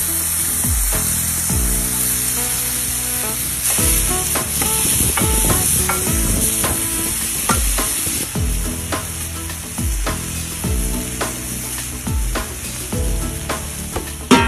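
Ground-beef smash-burger patties and sliced onions sizzling on a hot flat-top griddle: a steady frying hiss.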